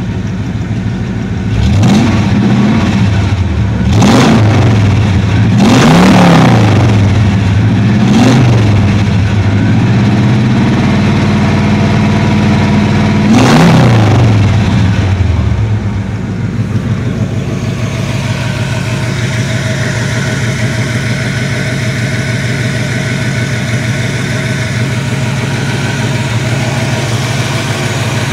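Rat rod's exposed, open-header engine revved in short throttle blips about every two seconds, then held at higher revs for a few seconds. After that it drops back to a steady idle for the second half.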